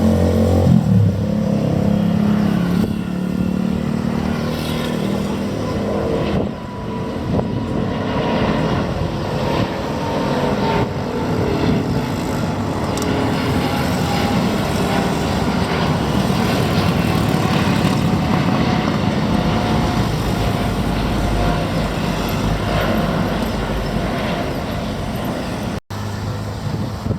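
Airbus A350-900's Rolls-Royce Trent XWB jet engines running loud and steady at takeoff power, with a thin whine that slowly falls in pitch. The sound drops out for an instant near the end.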